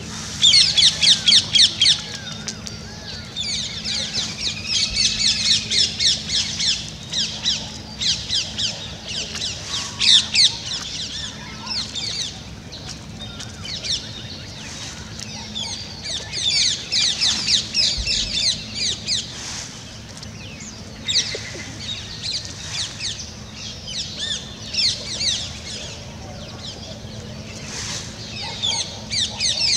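Many small birds chirping and twittering in quick, high-pitched runs, almost without a break; the loudest burst comes in the first couple of seconds.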